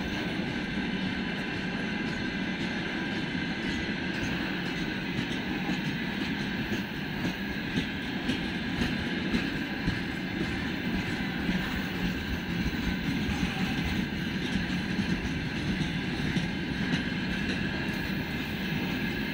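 Freight train of open gondola wagons rolling past on steel rails: a steady rumble of wheels on track, with irregular sharper clacks over the rail joints through the middle.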